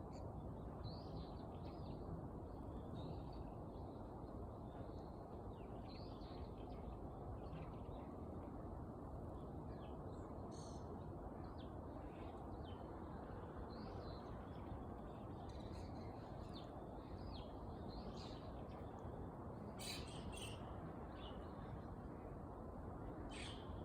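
A small bird chirping in short, scattered high notes, with a few louder chirps near the end, over a steady low background noise.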